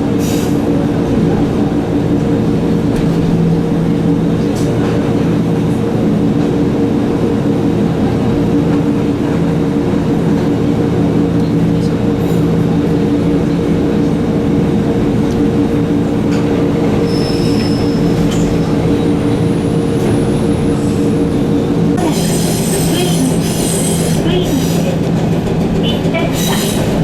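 Interior of a railcar running along the line: wheels on rail under a steady multi-pitched hum. About 22 seconds in the hum stops, and brief high wheel squeals and rattles follow.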